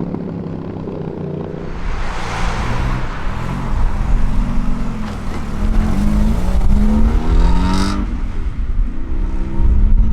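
A car engine accelerating hard, its pitch climbing, dropping sharply about eight seconds in, then climbing again, over a wide rush of exhaust and tyre noise.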